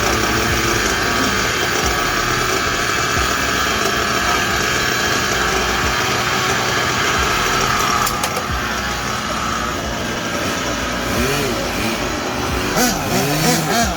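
Warmed-up RB Concepts WS7-II nitro engine in a 1/8 HoBao Hyper VS buggy idling steadily, then revved in several quick rising-and-falling blips over the last few seconds.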